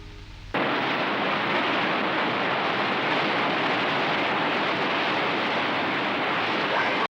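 Steady rush of white water in a river rapid, cutting in suddenly about half a second in.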